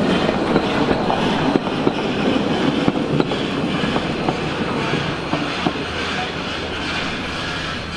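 Narrow-gauge steam train of D&RGW 346 rolling past, its tender and caboose wheels running over the rails with scattered clicks, the sound easing off as the train moves away.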